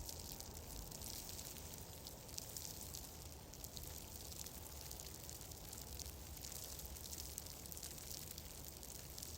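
Fireplace fire crackling steadily: a dense run of fine, irregular crackles over a soft hiss and a low rumble.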